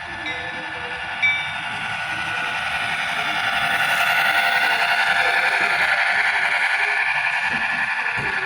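Model train running past on the club layout, a steady whirring hum of motor, gears and wheels on track. It grows louder to a peak about halfway through, then eases off slightly.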